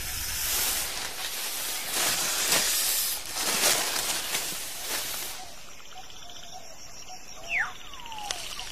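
King cobra hissing in repeated breathy bursts for about five seconds, then a quieter stretch of forest sound with a short, falling bird-like call near the end.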